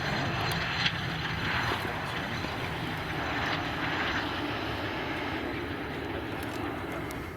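Steady noise of jet aircraft engines, with one sharp click about a second in.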